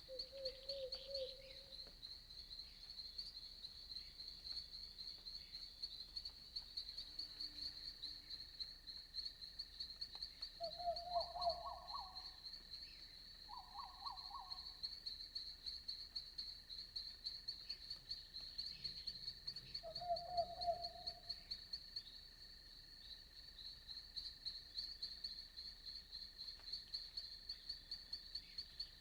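Crickets chirping in a continuous fast pulse. Frogs give short trilled croaks about five times, two of them close together a third of the way in.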